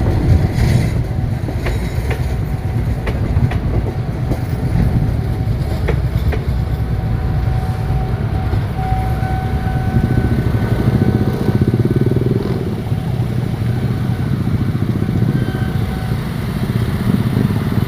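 A train running through the station with a steady low rumble. Wheel clicks come over the rail joints in the first few seconds, and faint steady tones sound in the middle.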